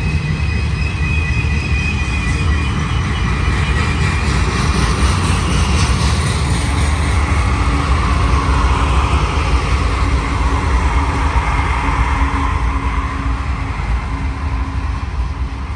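Freight train passing close by: tank cars rumble and clatter over the rails with a thin wheel squeal in the first few seconds. About halfway through, the two rear diesel locomotives go by, adding a steady engine drone and hum.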